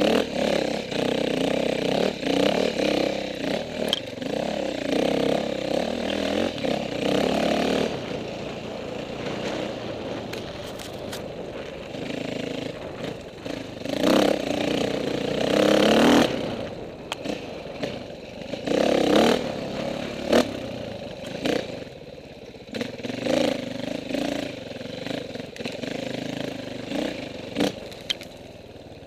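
KTM 450 dirt bike's single-cylinder four-stroke engine revving up and dropping back again and again while riding off-road, with louder bursts of throttle past the middle. Knocks and scraping clatter from the bike and terrain come through between.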